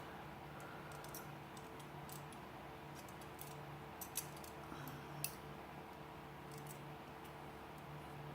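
Scattered faint clicks of small metal parts being handled while a rusty Leatherman Wingman multi-tool is taken apart, two of them a little sharper about four and five seconds in, over a steady low hum.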